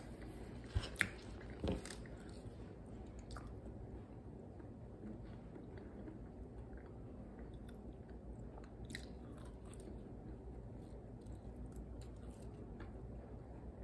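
Mouth sounds of a person biting and chewing french fries, with soft crunches and small clicks over a steady low hum. A few sharp clicks and a thump about a second or two in are the loudest sounds.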